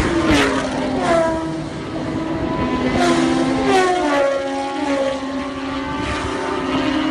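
Motorcycle engine revving hard, its pitch sweeping up and dropping back several times as the throttle is worked and the gears change.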